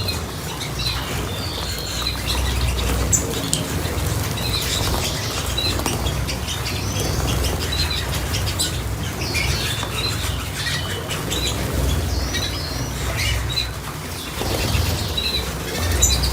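Small cage birds chirping in short, scattered notes while wings flutter and flap, with a steady low rumble underneath.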